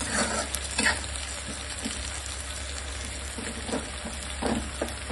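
Chopped onions, tomatoes and green and dried red chillies sizzling steadily as they fry in oil in a pan, with a few faint knocks, the clearest near the start and about a second in.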